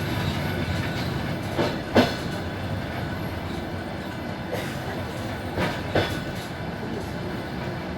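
Suburban train in motion heard from on board: a steady running rumble with paired wheel knocks over rail joints, twice, about four seconds apart.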